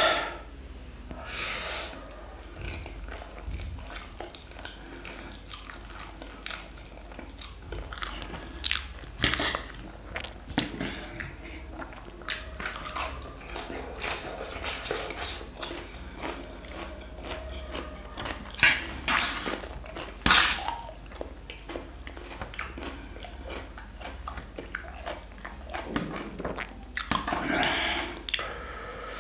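Close-up chewing and slurping of saucy black bean noodles and boiled egg, with small wet mouth sounds and now and then a louder slurp. Light clicks of a fork against a steel plate run through it.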